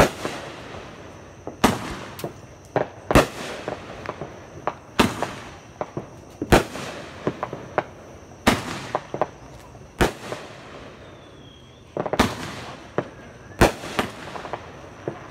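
Aerial fireworks going off overhead: about nine sharp bangs, one every second or two, with smaller pops and crackles between them.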